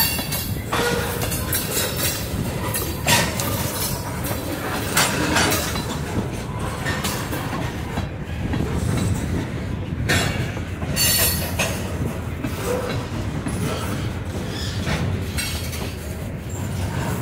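Freight train of covered hoppers and tank cars rolling past close by: a steady rumble of steel wheels on rail, broken by irregular clacks as the wheel trucks pass over a dip in the track.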